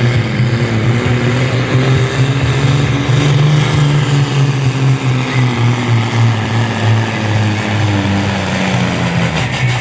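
Diesel engine of a supersport-class pulling truck running hard at high revs under full load during a pull, a loud steady drone whose pitch wavers slightly.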